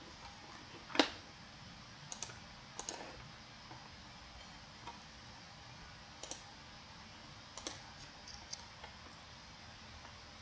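Scattered computer mouse clicks, some in quick pairs, the loudest about a second in.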